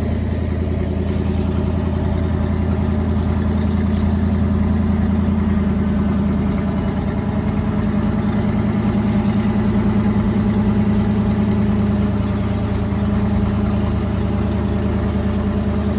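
Large farm machine's engine running steadily at a constant speed, a low even hum.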